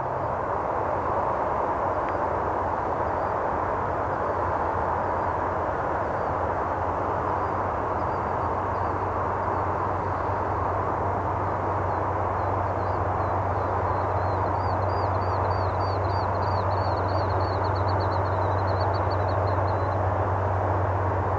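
Distant diesel freight locomotives approaching: a steady low rumble that grows stronger about halfway through, over a steady hiss. A rapid series of high chirps runs through the second half.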